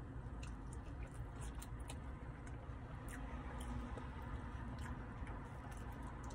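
A person chewing a mouthful of chili cheese fries, with scattered soft wet mouth clicks, over a steady low hum inside a car.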